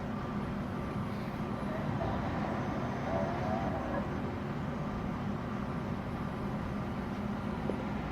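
A large vehicle's engine running steadily with a low hum, no revving or sudden changes.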